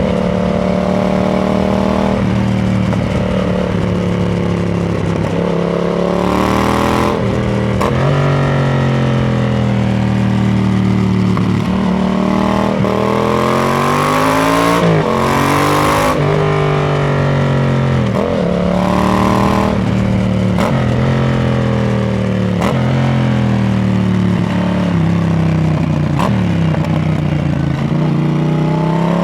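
Yamaha MT-07's 689 cc parallel-twin engine through a RoadsItalia Thunder titanium slip-on exhaust, pulling up through the revs, dropping back and pulling up again several times, with stretches of steady running and a fall-off in revs between the climbs.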